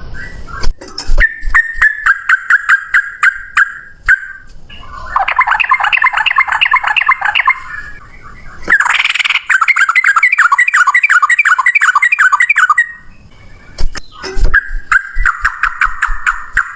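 Male sooty-headed bulbul (trucukan) singing rapid-fire 'ropel' song: four long runs of fast repeated notes, each several seconds long, with short pauses between them. Sharp clicks are mixed in, mostly in the first few seconds and near the end.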